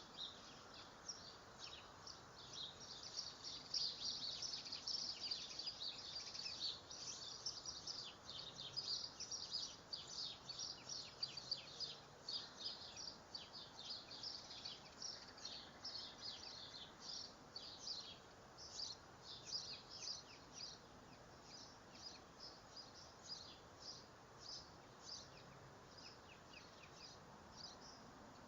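Small songbirds chirping: many short, high chirps in quick succession, busiest in the first half and thinning out later, over a faint background hiss.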